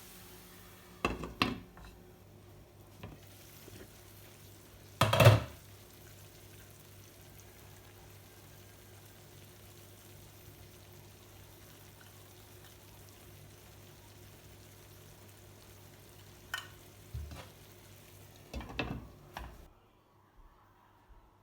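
Kitchen work sounds: a few short clattering knocks of dishes and utensils, the loudest about five seconds in, with another cluster near the end. Under them runs a steady low hum that cuts off shortly before the end.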